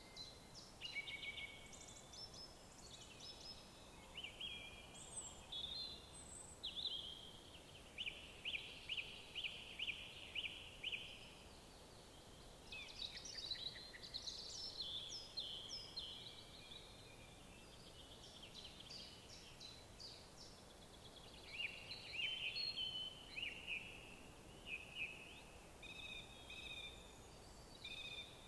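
Several songbirds singing: short chirping phrases and fast trills, one after another, over a faint steady background hiss.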